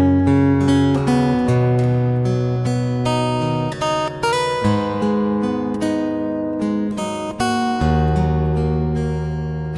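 Music: acoustic guitar playing, plucked and strummed chords changing about once a second.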